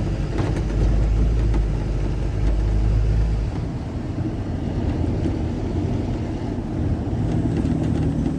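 Car driving along a road: a steady low rumble of engine and tyre noise, heavier for the first three seconds or so.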